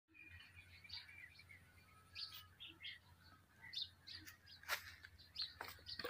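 Faint birds chirping, many short calls scattered throughout, with a few sharp clicks, the loudest a little over halfway through.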